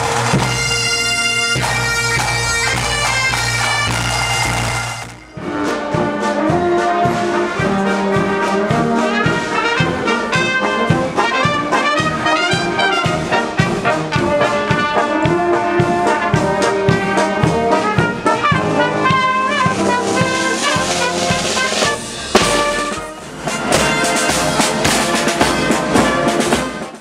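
Military band music: a few seconds of a held chord that breaks off, then brass playing a march melody over a steady bass-drum beat about twice a second.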